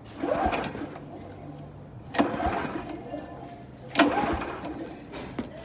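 Pull-start rope of a small tractor's engine yanked three times, about two seconds apart, each pull a short burst that dies away without the engine catching.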